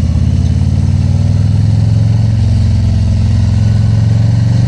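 Harley-Davidson Tri Glide Ultra's V-twin engine running steadily, its low exhaust pulse loud and even.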